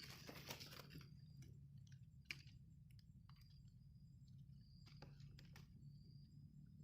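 Near silence: a low steady hum with scattered faint clicks and rustles and a faint thin high tone that comes and goes.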